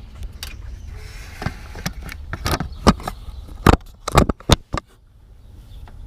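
2006 Toyota engine running with a steady low rumble, the noise its owner is trying to trace. Through the middle come a string of irregular loud clicks and knocks, the loudest sounds here, easing off before the end.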